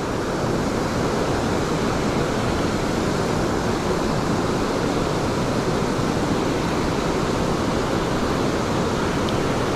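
Steady rushing of water pouring over a river spillway, an even, unbroken noise.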